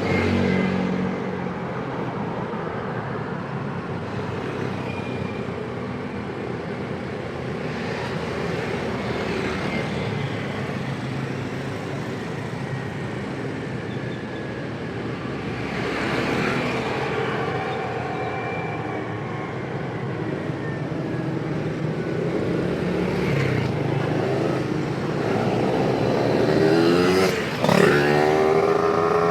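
Busy city road traffic: a steady mass of vehicle engines and exhausts running and passing, with one engine revving up and rising in pitch near the end.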